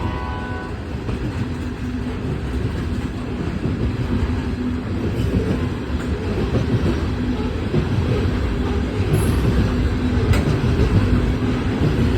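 Freight train cars rolling through a grade crossing: a steady rumble of wheels on rail with clickety-clack, slowly getting louder. No crossing bell is heard because the bell at this crossing is dead.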